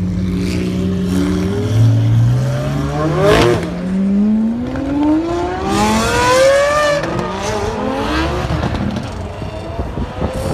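Supercar engine through an aftermarket exhaust, holding steady revs and then accelerating hard, its pitch climbing for several seconds. There is a short loud rush about three and a half seconds in. The revs drop away around seven seconds in and settle into an uneven rumble.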